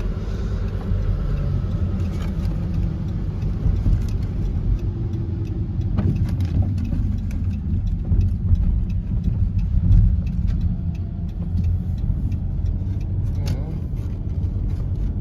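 Car driving, heard from inside the cabin: a steady low engine and road rumble, with faint scattered ticks over it.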